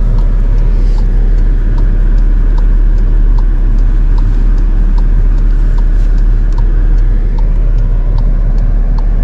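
Steady low rumble of a car on the move, with a light, evenly spaced ticking somewhat under two times a second.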